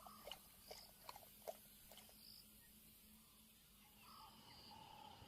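Near silence: a few faint scattered ticks in the first two seconds over a faint steady hum, with a few faint high chirps.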